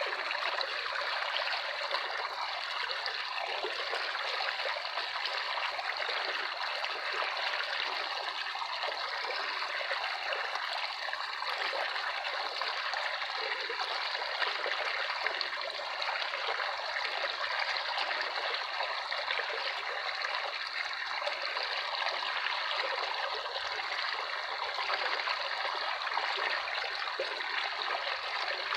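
Running water trickling and splashing steadily, as from a small stream.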